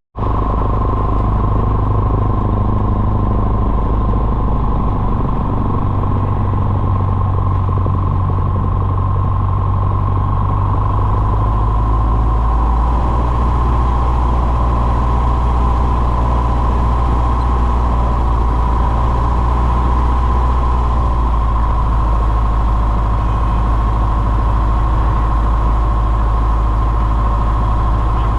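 Small propeller airplane's piston engine running steadily, a loud, even drone whose low note shifts slightly about twelve seconds in.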